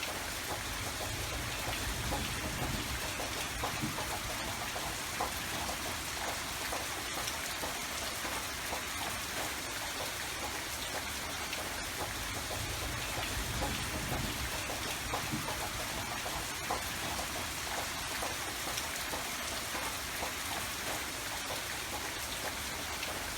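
Steady rain falling, a dense patter of many small drops striking surfaces.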